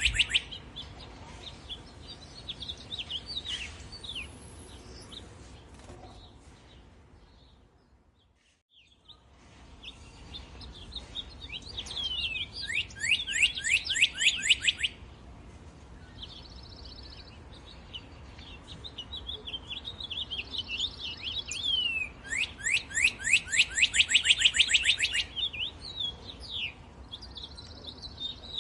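Birds chirping: fast runs of high, downward-sweeping chirps come in bouts of a few seconds, with softer calls between them. The sound fades almost to silence about eight seconds in, then the birds resume.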